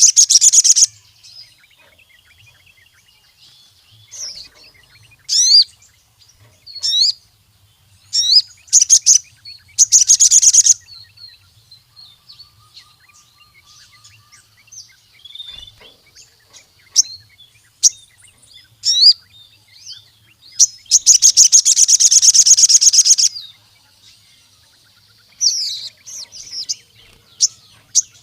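Sogon (ruby-cheeked sunbird) singing vigorously in high-pitched sharp chirps and fast trills, with pauses between phrases. One long, rapid trill lasts about two seconds roughly three quarters of the way through.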